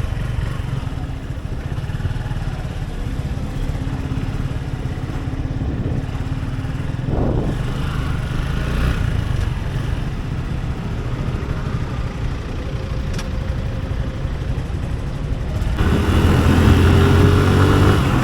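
Motorcycle engine running under way with wind rumbling on the microphone; about 16 seconds in the engine gets louder and rises in pitch as it accelerates.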